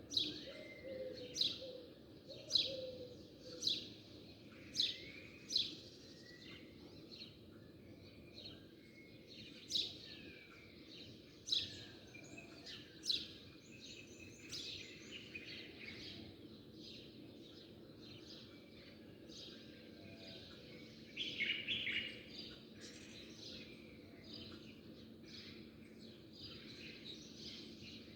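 Small birds chirping: sharp, loud chirps about once a second at first, then a few spaced further apart, and a short burst of quick twittering a little past the middle, over a steady low background noise.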